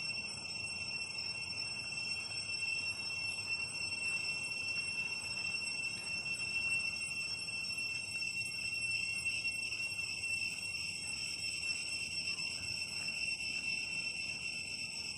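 Cicadas singing: a steady, high-pitched buzzing drone that grows a little stronger in the second half.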